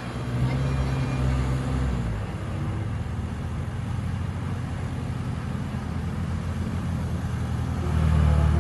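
Heavy diesel engine running steadily, its pitch dropping about two seconds in and the engine getting louder near the end.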